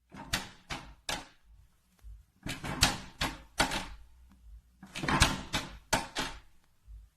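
Plastic cat flap clacking as it swings against its frame, about a dozen sharp knocks in three bursts.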